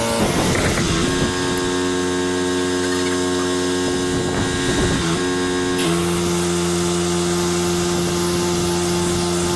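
Pressure washer's engine running with a steady hum, its pitch stepping up and down a few times, over a constant hiss.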